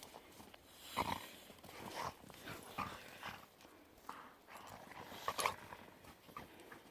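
Pit bulls play-wrestling, faint short scattered sounds from the dogs about once a second.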